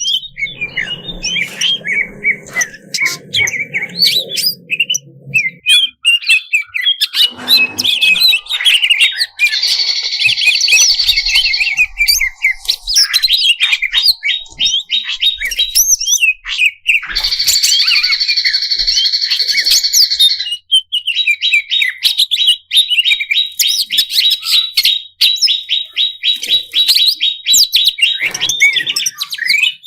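Cucak ijo (green leafbird) singing a long, fast song of rapid chirps, sharp notes and trills that changes pattern every few seconds, packed with mimicked calls of other birds. A low hum lies under the first few seconds.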